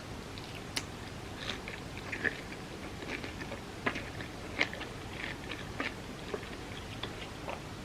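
A person chewing and eating soft crepe cake, with scattered wet mouth clicks and smacks over a steady hiss.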